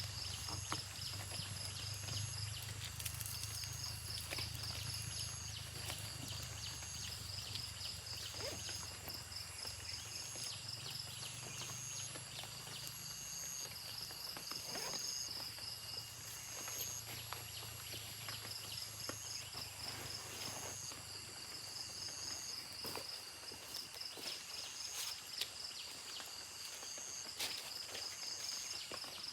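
Forest insects chirping in steady, repeating high trills, with scattered light clicks and knocks from hands at work.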